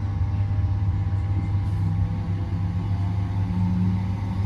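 Class 323 electric multiple unit heard from inside the carriage while running: a steady low rumble, with a faint hum that comes in partway through and rises slightly in pitch.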